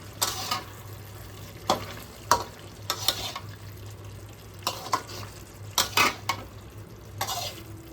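Spatula scraping against a pot as chicken curry with pineapple pieces is stirred, in short, irregular strokes.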